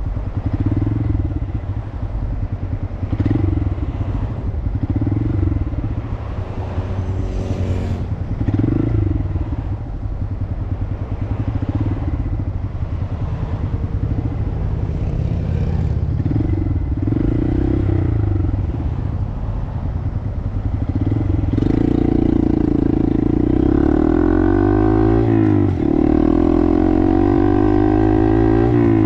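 Small 125 cc single-cylinder Honda motorcycle engine running at low speed, swelling briefly every second or two. About 22 seconds in it opens up and gets louder, its pitch climbing, dropping sharply, then climbing again as it accelerates.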